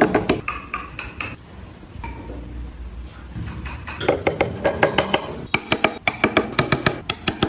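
Quick series of hard clinking taps with short ringing tones: a handful at the start, then a dense run of about seven a second through the second half.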